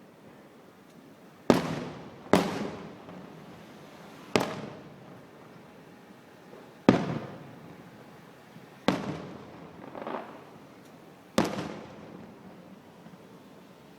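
Aerial fireworks shells bursting overhead: six loud booms a second or more apart and a smaller one, each followed by a fading rumble.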